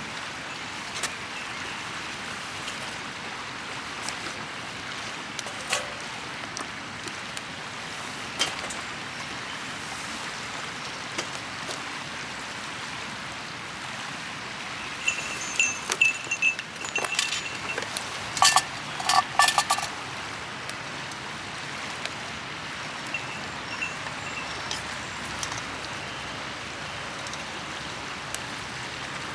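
Steady rushing of a river, with scattered sharp clicks and a burst of metal clinking and ringing about halfway through.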